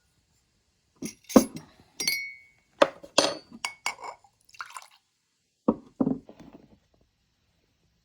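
Kitchenware clinking and knocking as it is handled and set down. About a dozen sharp clinks over the first five seconds, some with a short ringing tone, then a few duller knocks around six seconds in.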